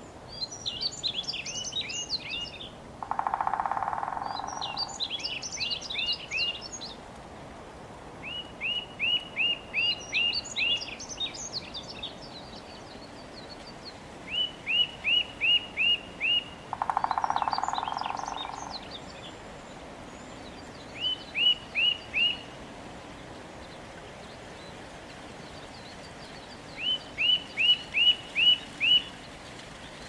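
Songbirds singing: runs of five to seven quick, evenly spaced chirps alternate with higher twittering phrases, separated by pauses of a few seconds. Twice, a short lower raspy sound lasting about a second and a half breaks in, about three seconds in and again past the middle; these are the loudest moments.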